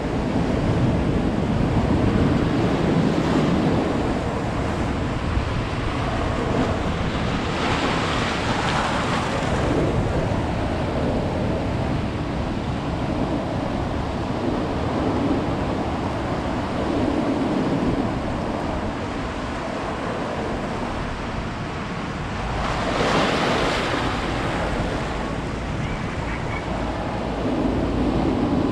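Ocean surf: a continuous wash of breaking waves with a deep rumble, swelling into two louder breaks about eight seconds in and again about twenty-three seconds in. Wind buffets the microphone.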